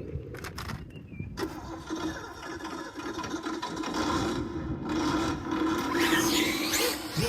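Electric 1/8 Kyosho Inferno GT3 AMG GT radio-control car running on 4S power: a steady motor whine with tyre noise over the ground. It starts about a second and a half in, grows louder, peaks near the end, then drops off.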